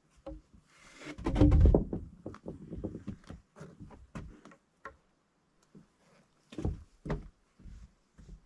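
Knocks and thumps of heavy timber beams being handled and set in place, with a louder low rumbling swell about a second in and two firmer thuds near the end.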